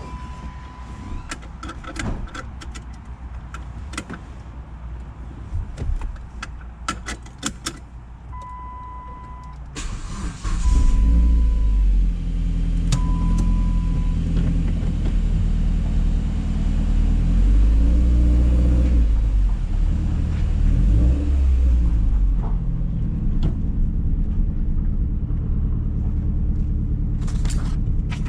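A car's warning chime beeps several times among clicks and knocks. About ten seconds in, the Dodge Caliber SRT-4's turbocharged 2.4-litre four-cylinder starts and keeps running, its pitch rising and falling a few times.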